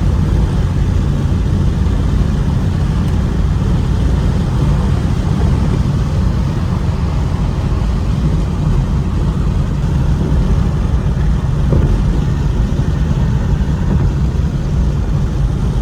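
Ford Mustang driving at a steady pace, its engine and tyre noise a constant low rumble with no revving or change in pitch.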